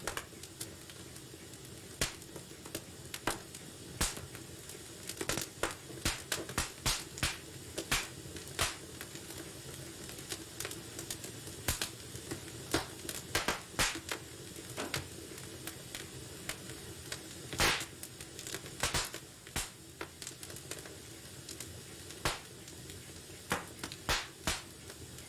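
Wood fire in a fireplace crackling: irregular sharp pops and snaps, sometimes several close together, over the steady low noise of the burning, with one louder pop about two thirds of the way through.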